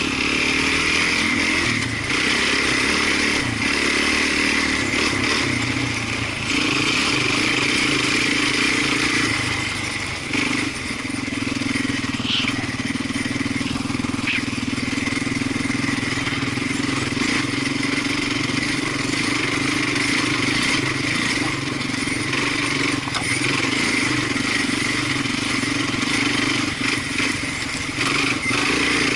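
Off-road vehicle engine running steadily while riding along at a fairly constant pace, easing off briefly about ten seconds in.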